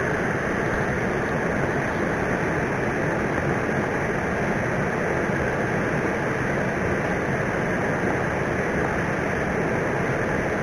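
Steady rushing of river water, an even wash of noise that does not change.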